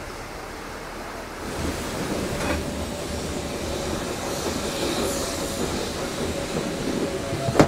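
Furka Steam Railway train heard from aboard a coach: the rumble and rattle of the carriages rolling on the track, growing louder about a second and a half in. A thin steady squeal of the wheels comes in during the second half, and a sharp knock sounds just before the end.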